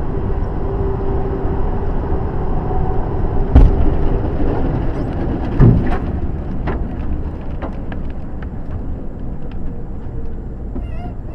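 A vehicle driving, with steady engine and road rumble and two heavy thumps, the first about three and a half seconds in and the second about two seconds later.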